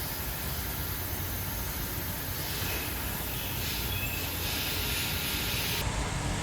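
Coolant, which is plain water, draining out of the open coolant drain plug holes in an LS1 aluminum engine block, a steady hiss that cuts off abruptly shortly before the end.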